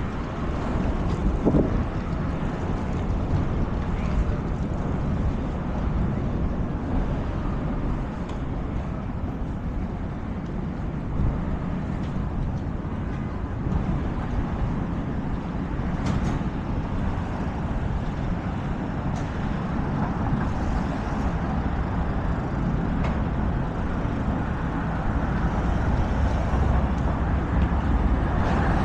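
Busy city street ambience: a steady rumble of road traffic, with a few faint short clicks, growing slightly louder near the end.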